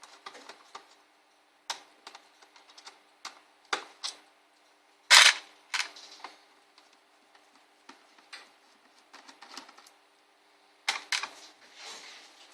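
Irregular clicks and taps of hands and tools working on a laptop being taken apart, its plastic case parts handled, with one louder knock about five seconds in, over a faint steady hum.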